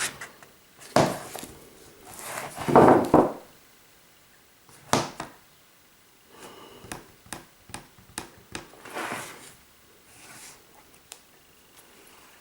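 Handling noise: a few short rustling sweeps, the loudest a little after two seconds, then a sharp click and a run of small knocks and clicks.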